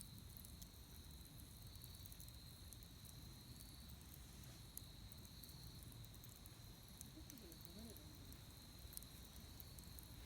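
Wood fire crackling faintly, with scattered small pops, over a steady high-pitched drone.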